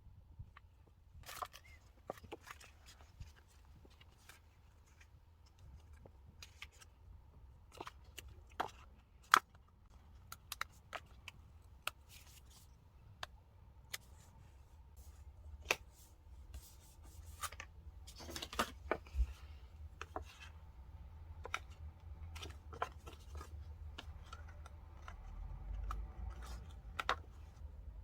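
Quiet desk-work sounds of diary decorating: scattered sharp snips and taps as paper and stickers are cut and handled, with a longer rasping peel or tear about 18 seconds in.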